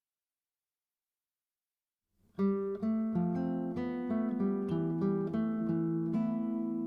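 Dead silence, then acoustic guitar music starts suddenly a little over two seconds in: plucked notes and chords ringing on.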